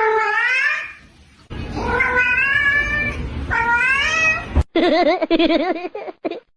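A domestic cat meowing: three long, drawn-out calls, each rising in pitch. After an abrupt cut near the end comes a lower call with a wavering pitch.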